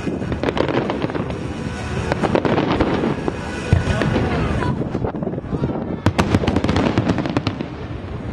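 Aerial fireworks bursting in quick succession with dense crackling, and a thick volley of sharp bangs about six to seven and a half seconds in.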